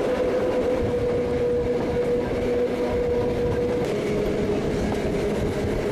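Petit Train Jaune, a metre-gauge electric train, running steadily, heard from an open carriage window: a constant rumble of wheels on rails with a steady whine that drops a little in pitch about four seconds in.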